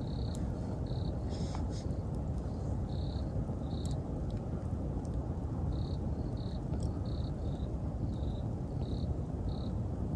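Campfire crackling with a few sharp pops over a steady low rumble, while an autumn insect chirps in short high pulses, several times a second-and-a-bit apart, throughout.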